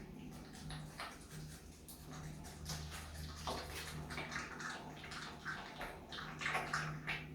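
Himalayan marmot chewing food: irregular wet, squeaky mouth clicks and smacks, a little louder near the end.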